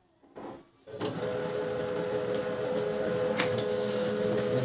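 Canon LBP 2900 laser printer starting up about a second in and running steadily with a held mechanical hum as it feeds and prints a page, with one sharp click past the middle. Its freshly cleaned pickup roller is drawing a single sheet, no longer double-feeding.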